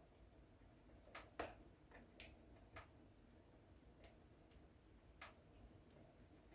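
Wood fire in a fireplace crackling softly: scattered sharp pops and snaps, about half a dozen in all, over a faint steady hiss. The loudest pop comes about a second and a half in.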